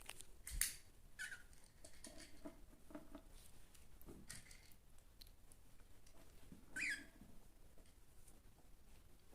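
Cockatiels making faint short chirps and scratchy rustling. One louder sharp chirp comes about half a second in, and a brief call falling in pitch near seven seconds.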